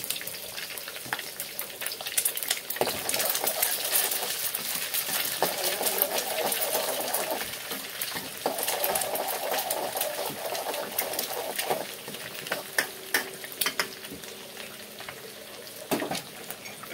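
Egg and chopped onion sizzling in hot oil in a steel wok, with a metal spatula scraping and clicking against the wok as the egg is stirred and broken up. The sizzling is loudest for several seconds in the middle, then eases.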